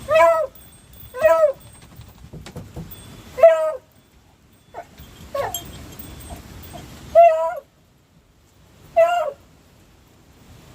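A beagle giving short, high yelping cries: five loud ones, each a little arched in pitch and spaced one to two seconds apart, with a few fainter yelps between them.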